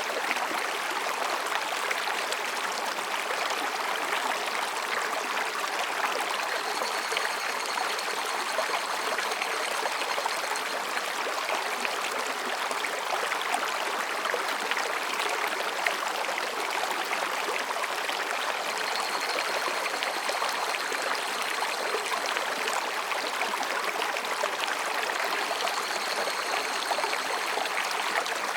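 Mountain stream babbling steadily over rocks. Faint high ringing calls of higurashi (evening cicadas) come through it three times: about seven seconds in, about twenty seconds in and near the end.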